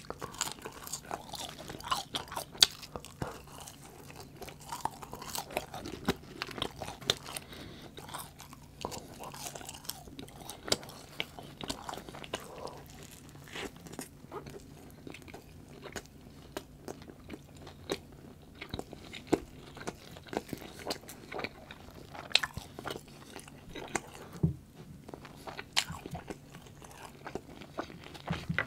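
Close-miked eating sounds: crunchy bites and chewing of curly fries and a roast beef sandwich, with many short crunches and clicks throughout.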